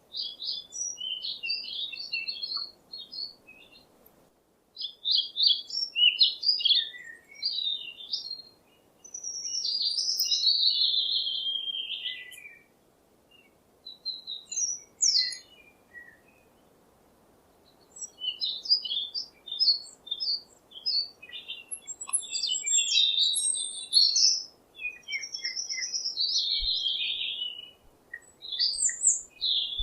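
A songbird singing: bursts of quick high chirps and warbling phrases, broken by short pauses.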